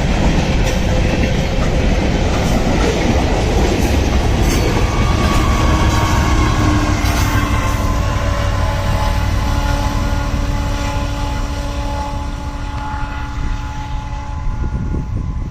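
A passing train's rail cars rolling over the track with a steady, loud clatter. Partway through, a few steady high tones join the rumble, typical of wheels squealing against the rails, and then fade. The noise eases a little near the end.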